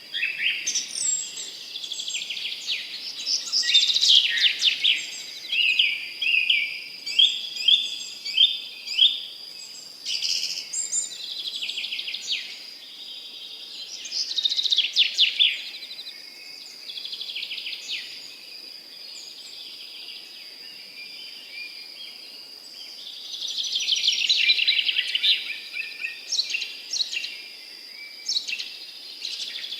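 Several songbirds singing in overlapping phrases of quick chirps and trills, the busiest stretches near the start and again about three-quarters through, over a steady thin high-pitched tone.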